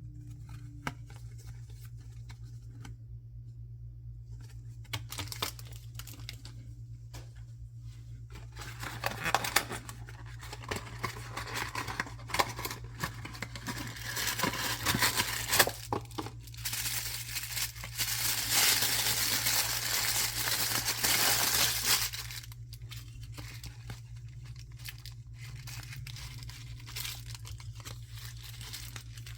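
Packaging being torn open and crinkled by hand. The crackling grows louder and denser about a third of the way in, stays continuous for several seconds, then drops back to quieter rustles near the end. A steady low hum sits underneath.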